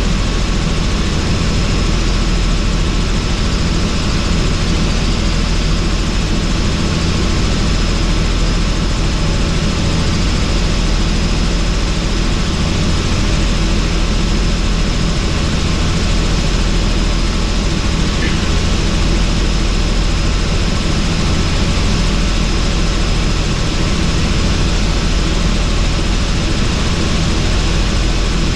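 Helicopter in steady flight with the doors off: a constant low rotor beat and engine noise with a thin high whine, mixed with wind rushing in through the open doorway.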